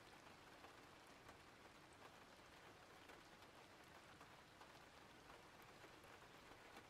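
Faint, steady rain: a soft hiss dotted with many small drop ticks.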